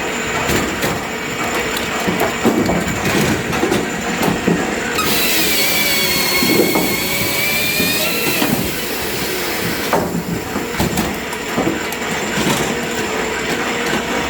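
Firewood processing machinery running loud while oak logs are cut and split, with wood knocking and cracking throughout. A high whine joins in from about five to eight and a half seconds in.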